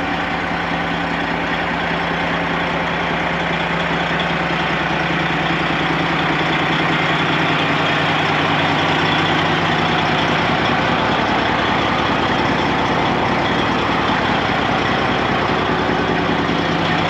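Freightliner semi truck's Detroit diesel engine idling steadily while it warms up.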